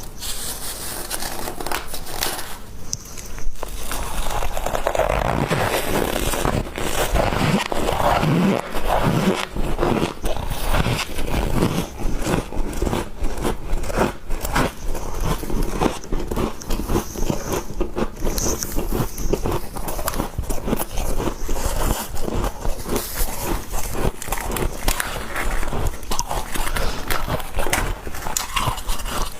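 Close-up biting and chewing of squeaky humidifier ice: dense, irregular crunching and crackling, bite after bite.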